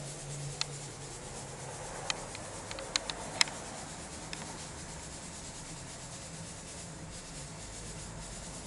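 Quiet room tone with a steady low hum, light rubbing and rustling, and a few small sharp clicks in the first few seconds, the loudest about three and a half seconds in.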